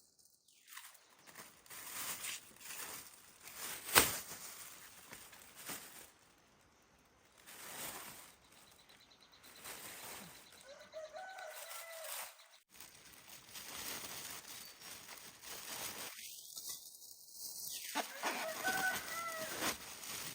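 Chickens calling and clucking, with a short pitched call about halfway through and another near the end. A sharp knock comes about four seconds in, and scattered clicks run throughout.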